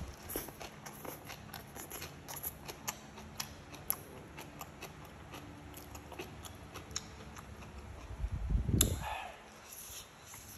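Close-up sounds of a person chewing stir-fried greens and steamed bamboo shoots: many small wet mouth clicks and crunches. One louder rushing sound comes about eight and a half seconds in.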